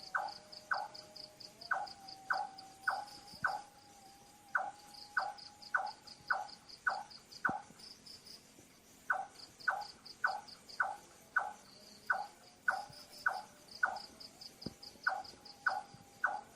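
Night bird calling in a run of short, evenly repeated notes, about two a second, with brief pauses between runs. Crickets chirp in fast high pulses behind it.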